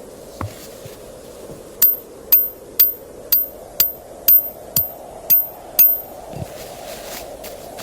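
Hammer striking metal nine times at about two blows a second, each blow sharp with a short high metallic ring.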